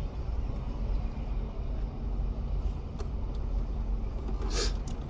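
Steady low rumble of a car, with a couple of light clicks and a brief rustling burst near the end.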